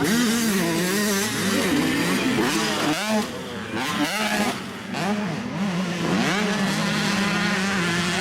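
Several 85cc two-stroke motocross bike engines revving up and down during a race. The sound dips a little about three seconds in, then one engine holds a fairly steady pitch toward the end.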